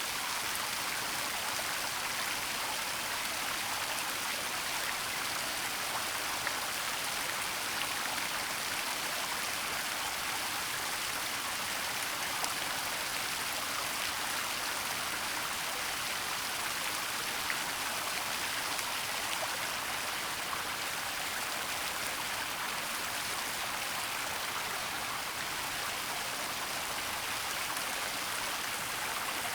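Waterfall: a steady, even rush of falling water, mostly a high hiss.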